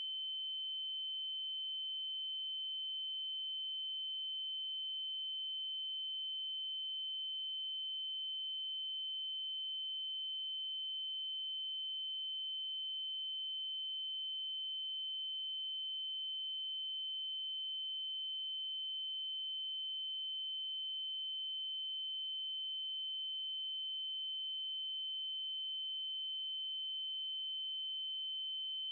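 Steady electronic 3072 Hz triangle-wave tone, one unchanging high pitch with faint overtones.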